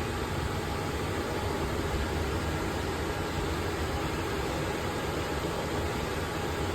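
Steady low rumble and hiss of a car in motion, heard from inside the cabin.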